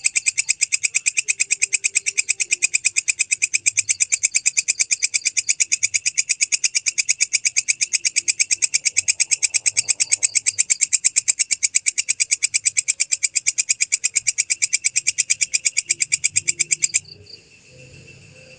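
Belalang kecek (walang kecek) katydid calling: a loud, fast, even train of high, dry ticking pulses that stops suddenly near the end.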